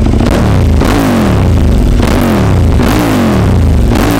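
KTM 1290 Super Adventure T's V-twin engine through an MIVV exhaust with the dB killer removed, revved in repeated quick throttle blips about every half second or so, the pitch dropping back after each one. Loud.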